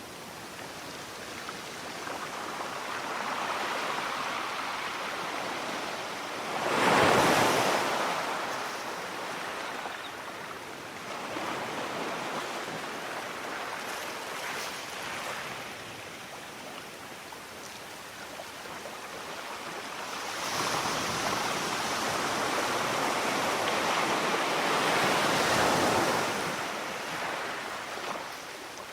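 Sea waves washing ashore: a short, loud surge of surf about seven seconds in, then a longer swell that builds from about twenty seconds and fades near the end.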